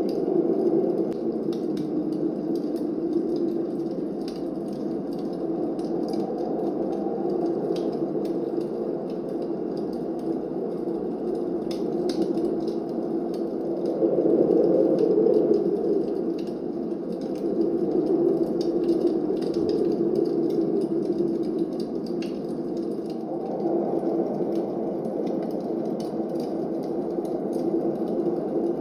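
Blizzard wind blowing in a steady low rush that swells and eases, loudest about halfway through. Over it, a fireplace crackles with small, sharp pops scattered throughout.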